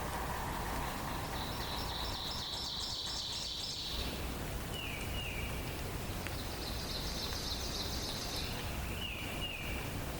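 Forest songbirds singing over a steady background hiss: two high, fast trilled phrases, and twice a pair of short down-slurred whistled notes.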